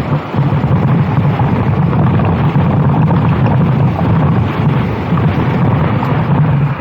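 A racing go-kart engine running hard at a fairly steady pitch, with wind buffeting the microphone. The engine note dips briefly right at the end.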